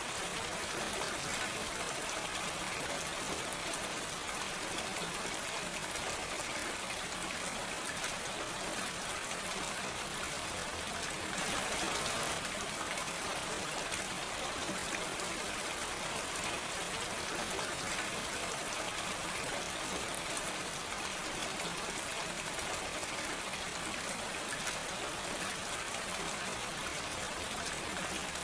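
Steady gentle rain without thunder, an even hiss with scattered drop ticks, swelling slightly about halfway through.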